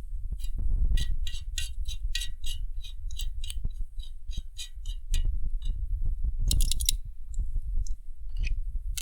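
Cooking over a campfire: a run of sharp clicks and crackles, closely spaced in the first few seconds with a dense cluster just past the middle, over a steady low wind rumble on the microphone.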